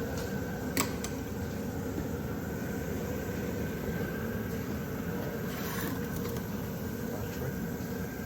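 Webasto Airtop 2000 parking heater running with a steady fan whir and a thin high tone, and one short click about a second in.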